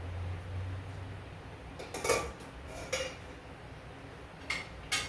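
Kitchen pots and metal utensils clinking: about four short, sharp knocks, the loudest about two seconds in.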